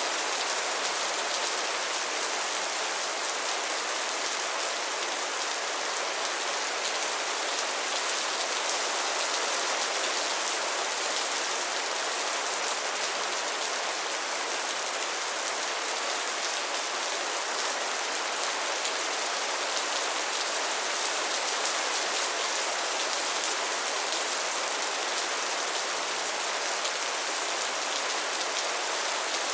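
Steady rain falling on a surface, an even hiss of many fine drops with no let-up or change.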